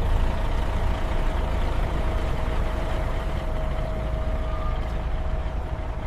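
Heavy truck engine idling steadily, with a constant faint whine above the low rumble.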